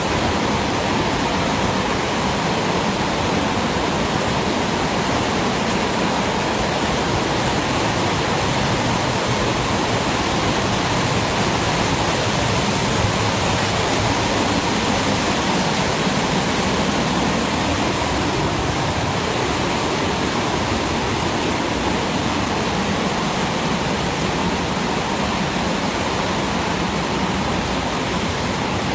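Waterfall and white water in a mountain gorge rushing steadily, loud and unbroken.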